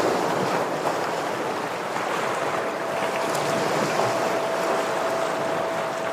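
Sea waves washing against shoreline rocks: a steady, even surf noise. About two and a half seconds in, a thin steady tone joins it and holds.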